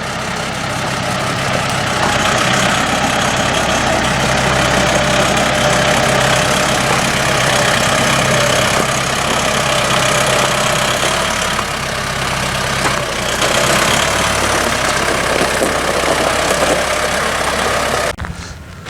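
Tractor engine running steadily at idle; the sound drops away suddenly near the end.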